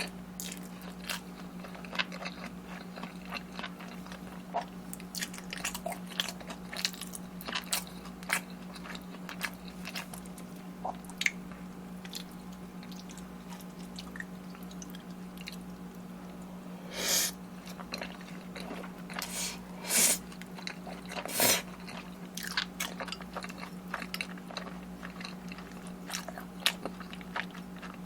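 Close-miked eating: a person biting and chewing food with many small wet, crunchy clicks, and a few louder bites in the second half. The food is sauced fried chicken and black bean noodles.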